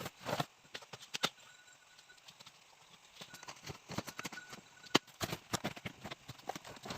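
Irregular knocks and taps from bamboo being worked by hand, with one sharper strike about five seconds in.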